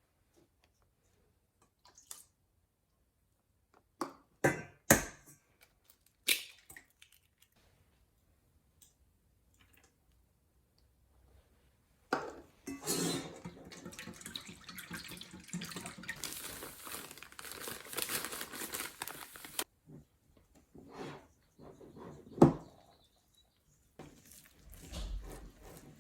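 Kitchen handling sounds during baking: a few sharp knocks and clinks, then about seven seconds of steady rustling noise that stops suddenly, then another single knock.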